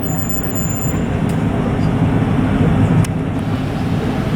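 Safari ride truck's engine and road noise: a steady, low rumble.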